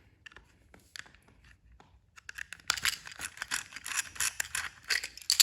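Small plastic toy train engine being handled and readied for a test: a few sparse clicks, then from about halfway in a busy run of plastic clicks, scrapes and rattles.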